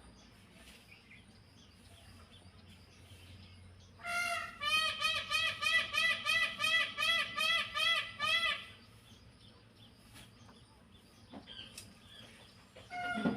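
Indian peafowl giving a rapid series of about a dozen loud calls, roughly three a second, starting about four seconds in and lasting about four seconds.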